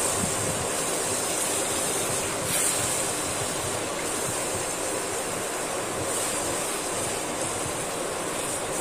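Tomato-onion masala sizzling steadily in an iron kadhai as it is fried down until the oil separates, with the light scrape of a wooden spoon stirring it.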